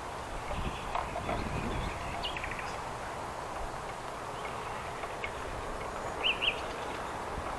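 Songbirds chirping in short, scattered calls over a steady windy hiss, with two louder chirps near the end. Wind rumbles on the microphone for a moment about a second in.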